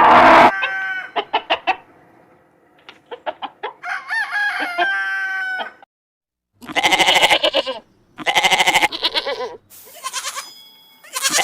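Chickens: a run of short hen clucks, then a rooster crowing, followed by two long, loud pulsing calls.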